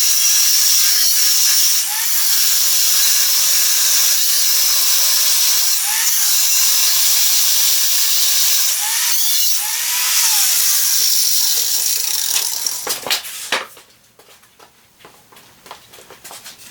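A power tool working metal, a loud steady high hiss that stops about thirteen seconds in, followed by a few clicks and light handling knocks.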